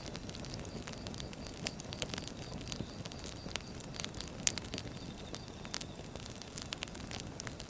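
Burning firewood crackling steadily over a low rumble of flames, with scattered sharp pops and one louder pop about halfway through.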